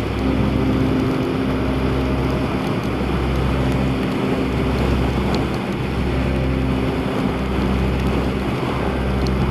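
Yamaha YZF1000R's inline-four engine with a Black Widow exhaust running at a steady cruise, under wind rush on the microphone.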